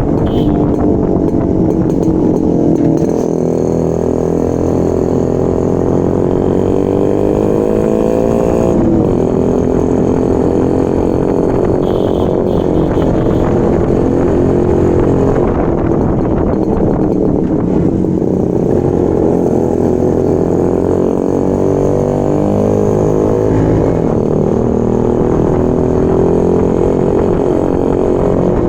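Yezdi Roadking's 250 cc two-stroke single-cylinder engine running under way, its pitch climbing for several seconds and then dropping sharply, about nine seconds in and again later, as it shifts up.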